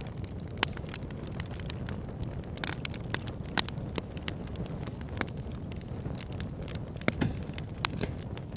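Wood fire burning in a fireplace, crackling and popping irregularly over a steady low rumble of flames, with a few sharper pops standing out.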